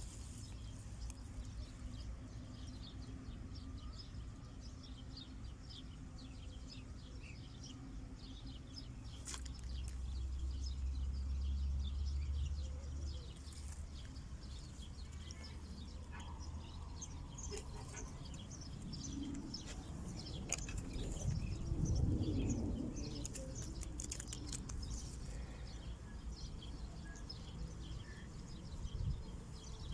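Small birds chirping repeatedly throughout, short high calls over a steady outdoor background. A low rumble comes about ten seconds in, and a louder rustle a little after twenty seconds.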